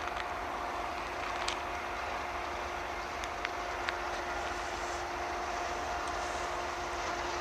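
Freight train running on the rails: a steady rolling rumble with a faint steady tone running through it and a few sharp clicks.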